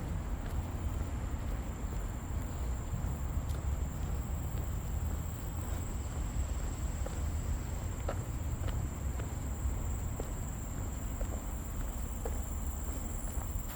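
Insects droning with one steady high note, over a low rumble. From about halfway, light irregular footsteps on the trail.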